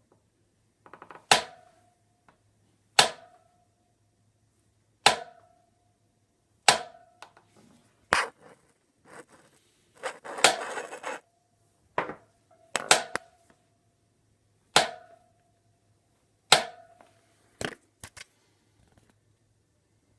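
Fatbike clunking: about a dozen sharp clunks, roughly one every one and a half to two seconds, many followed by a brief metallic ring. Around the middle comes a longer, rattling stretch.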